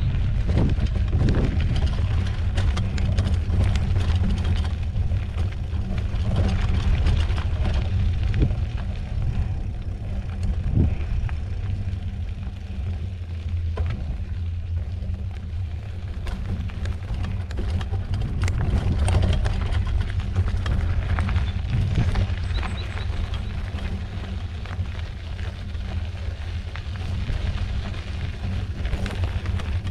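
Mountain bike ridden over a dirt trail: a steady low rumble of wind and rolling tyres on the microphone, with frequent rattles and knocks from the bike jolting over the ground.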